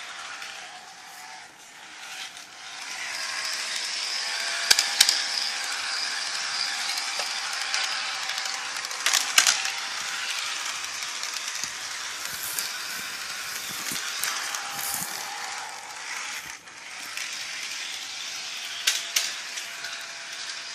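Bachmann HO scale Amtrak model train running on its track: a steady mechanical whir of the small electric motor and gears with wheels rattling over the rails. It grows louder a couple of seconds in, and a few sharp clicks stand out.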